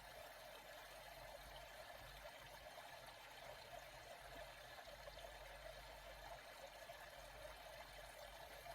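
Faint, steady sound of flowing water, an even rush with no separate splashes.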